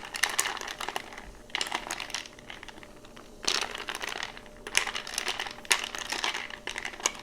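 A glass of sparkling water over ice fizzing and crackling, with ice cubes clinking against the glass as it is swirled, in irregular clusters of clicks.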